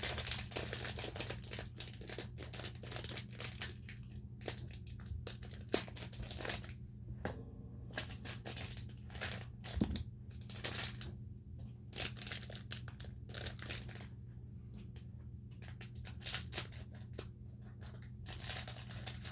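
Plastic packaging crinkling and tearing as a fidget-spinner toy is unwrapped by hand: irregular crackles and clicks, busiest near the start and the end.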